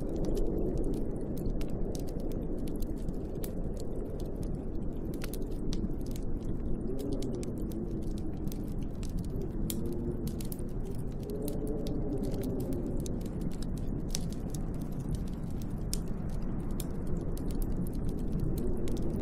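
Snowstorm wind blowing steadily, a low rumble with a howl that wavers up and down in pitch, with many light crackling ticks scattered throughout.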